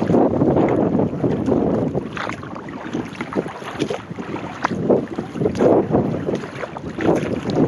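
Wind buffeting the microphone over water splashing irregularly against a kayak as it is paddled.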